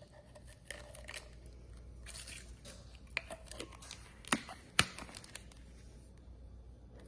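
Quiet handling noises: light rustling and crinkling with scattered small clicks, including two sharp clicks about half a second apart around the middle.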